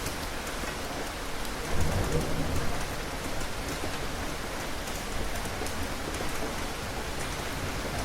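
Steady rain falling, with fine drop ticks on a surface throughout. A low rumble of thunder swells up about two seconds in and fades after about a second.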